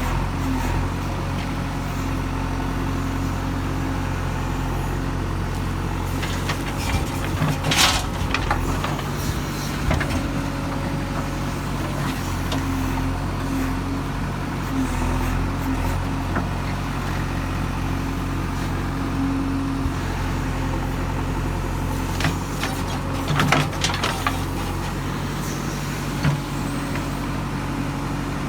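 Diesel engine of a JCB 3DX backhoe loader running steadily under load. Twice, about seven seconds in and again around twenty-three seconds in, there is a short burst of clattering and thuds as a bucketful of soil is dropped into the truck.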